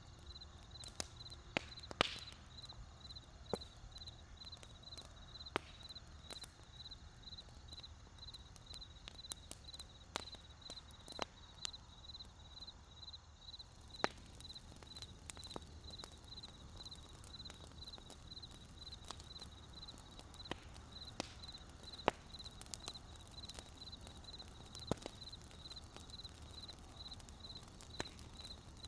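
Wood campfire crackling: irregular sharp pops and snaps over a low, steady rumble. A steady high chirp repeats a few times a second throughout.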